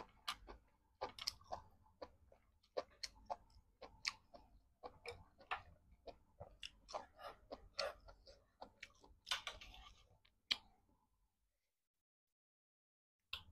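Close-miked mouth sounds of a person chewing a mouthful of instant noodles with the lips closed: soft, wet smacks and clicks, several a second, stopping about eleven seconds in.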